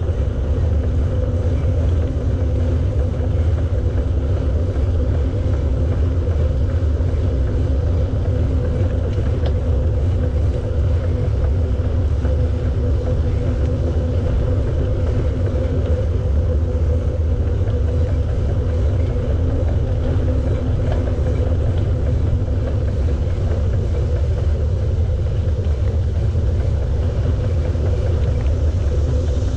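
Steady low rumble of riding a bicycle, picked up by the riding camera: wind on the microphone and tyres rolling on the path, with a faint steady hum over it.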